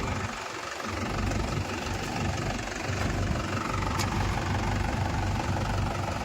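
Diesel tractor engine running steadily with a low, pulsing rumble.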